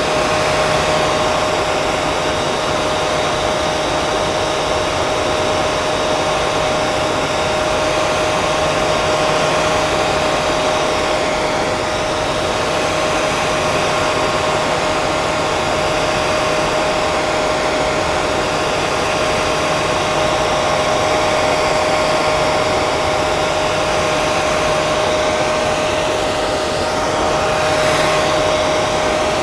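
Hair dryer running steadily: a loud, even rush of air with a constant motor whine.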